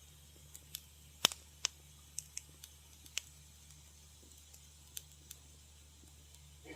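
Wood fire crackling in a fireplace: scattered sharp pops and snaps, the loudest a little over a second in, over a faint steady low hum.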